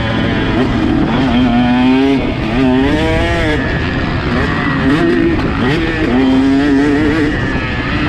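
Motocross bike engine ridden hard on a dirt track, its pitch climbing and dropping several times as the throttle opens and closes through the gears, over a steady rushing noise.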